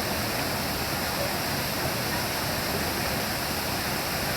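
Steady rush of water from a mountain valley stream, an even hiss that never breaks.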